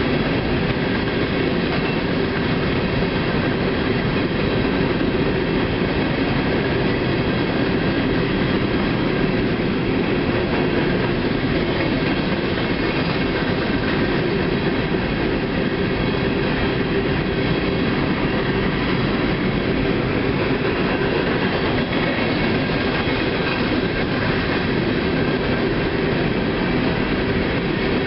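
A CSX freight train's boxcars rolling past at steady speed: an unbroken rumble of steel wheels on rail, with faint thin high tones riding over it.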